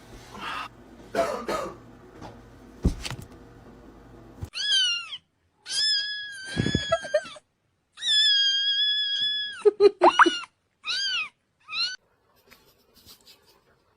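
A cat, likely a kitten, meowing repeatedly in a high pitch: about six calls, two of them drawn out for a second or more, then shorter ones. Before the meows there are a few light clicks and one sharp knock.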